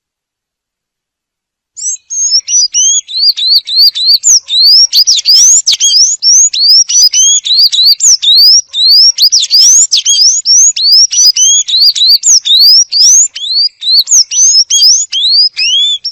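Sayaca tanager (sanhaço) singing: a fast, unbroken run of high, squeaky rising notes, several a second, starting about two seconds in.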